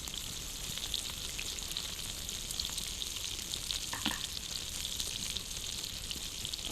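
Campfire crackling over a steady hiss, small pops throughout and one sharper pop about four seconds in.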